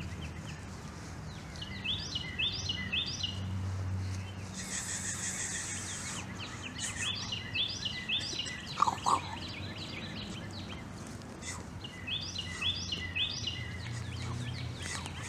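A songbird singing three short phrases of quickly repeated high notes, a few seconds apart, over steady outdoor background noise. Two short, sharp squeaks stand out, louder than the birdsong, about nine seconds in.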